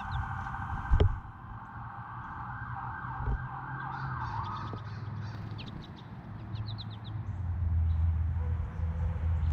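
A siren wailing in the distance, fading out about halfway through, over a low steady rumble. There is a single knock about a second in, and short high chirps from small birds.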